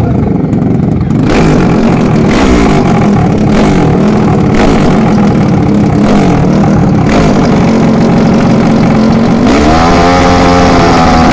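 Drag-racing motorcycle engines revving, the pitch climbing and dropping again and again, then holding high for a couple of seconds.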